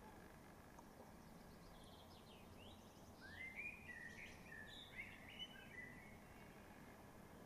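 A songbird sings one faint phrase of whistled notes and quick up-and-down sweeps, lasting about four seconds from around two seconds in, over a low steady outdoor background hum.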